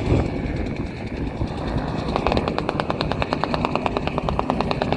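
Rapid, even rattle of sharp cracks, about ten a second, starting about two seconds in over a low rumble: an airshow plane's machine guns firing.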